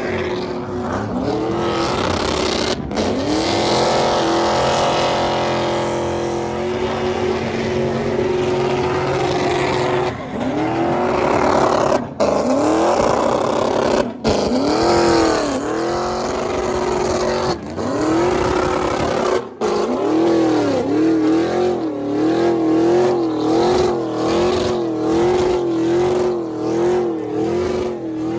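A vehicle engine revved hard over and over: its pitch climbs and holds at a steady high note, then falls away. Near the end it is blipped up and down in quick succession.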